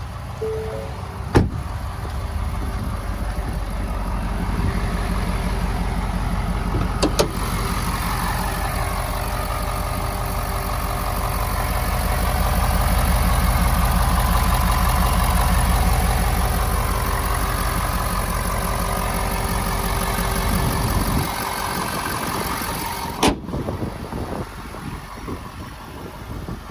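Ford 6.7L Power Stroke V8 diesel idling with a steady low rumble, growing louder around the middle, then cutting off about 21 seconds in. Three sharp clicks or knocks are heard, near the start, about 7 seconds in, and a couple of seconds after the engine stops.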